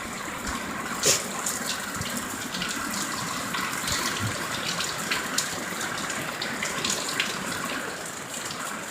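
Heavy rain pouring, with running water splashing: a steady rush of water with scattered drips and splats throughout.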